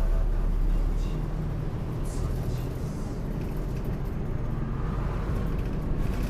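Route bus engine running steadily, heard from inside the passenger cabin as the bus pulls away from a stop.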